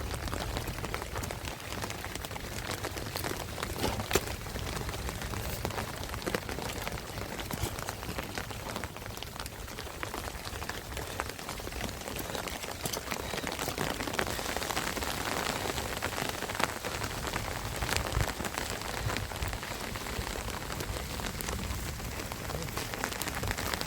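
Steady heavy rain falling, with many sharp drop impacts on surfaces close by and a couple of louder knocks.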